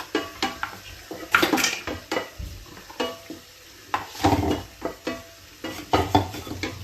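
Kitchen clatter: metal utensils and pots knocking and scraping in a string of irregular knocks, roughly one cluster a second.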